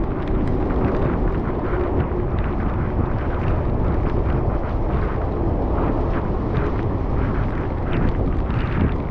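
Wind buffeting the microphone while cycling through a rainstorm: a steady heavy rumble with many small crackles over it.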